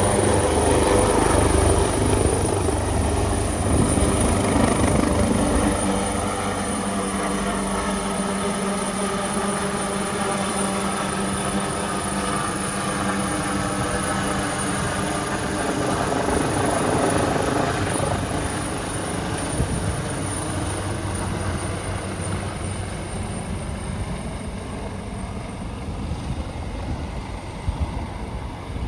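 AgustaWestland AW139 twin-turbine helicopter running, with a steady high turbine whine over the low rotor tone. It grows steadily fainter, as a helicopter does when it flies away.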